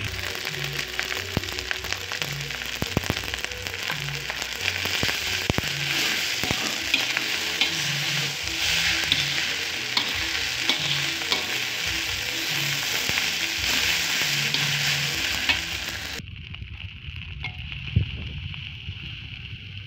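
Fried rice sizzling in a wok, with a metal spatula scraping and clicking against the pan as it is stirred and tossed. About three-quarters of the way through, the sizzle drops away abruptly to a quieter hiss.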